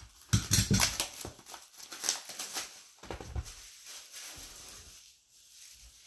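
Hands handling card packaging on a table: a quick run of rustling, crinkling and knocks, loudest in the first second, thinning to a few scattered taps and then quiet after about three and a half seconds.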